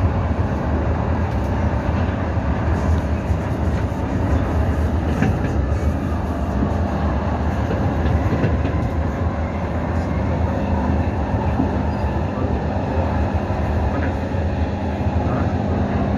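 Cabin sound of an SMRT C151 electric train pulling out of a station and gathering speed: the steady rumble of the wheels and running gear, with a low steady hum that comes in about ten seconds in.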